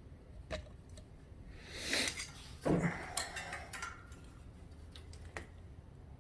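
Hand work on a riding mower engine: small metallic clicks and rattles of tools and parts being handled, with a rustle about two seconds in and a louder thump shortly after.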